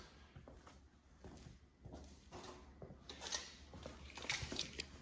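Scattered light knocks, clicks and rustles of wood and tools being handled, with a few sharper knocks about three and four seconds in.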